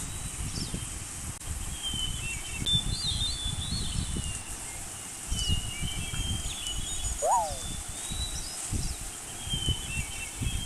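Outdoor birdsong: several small birds chirping and trilling, with one clearer whistled call about seven seconds in. A faint steady high insect-like hiss and an uneven low rumble run underneath.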